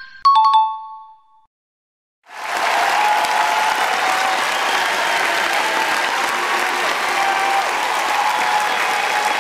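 A brief ringing two-note tone that fades out, then after about a second of silence a crowd applauding steadily for about seven seconds: an applause sound effect.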